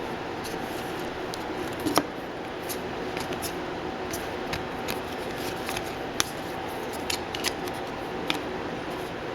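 Hockey trading cards being handled and flipped through: scattered light clicks and slides of card stock over a steady background hum, with one sharper knock about two seconds in.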